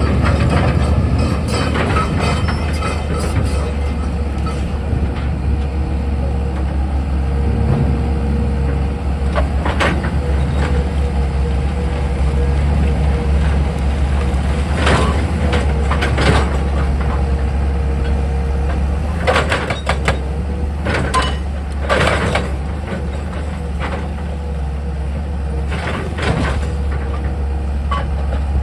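Excavator's diesel engine running steadily with a deep hum, with a faint steady whine through the middle and scattered sharp metallic clanks and knocks, most of them in the second half.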